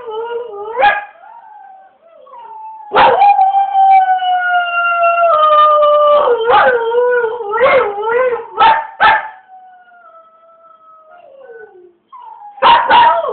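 A dog howling, the kind of long drawn-out 'singing' howl: sustained calls that slide slowly down in pitch, broken by short sharp cries. It goes quieter for a few seconds, then comes back with a brief loud burst near the end.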